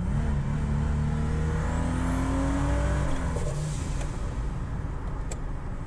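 Turbocharged 3800 V6 pulling hard in first gear, heard from inside the car: the engine note climbs for about three seconds with a high turbo whistle rising over it. About three seconds in, the revs drop back.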